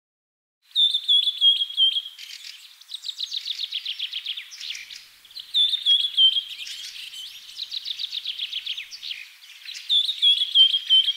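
A songbird singing. It starts about a second in and repeats a phrase of clear chirps three times, roughly every four to five seconds, with fast trilling in between.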